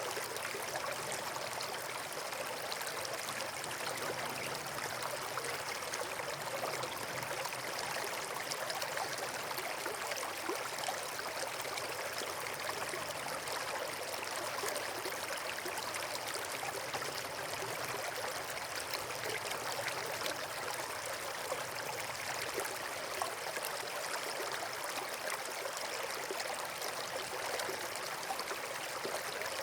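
Steady rushing and trickling of flowing water, like a stream or small waterfall, unchanging throughout.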